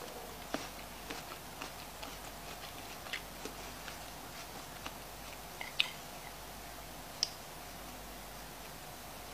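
Close-up chewing of a crisp bite of raw apple with the mouth closed: small, irregular crunching clicks. Two sharper clicks stand out in the second half.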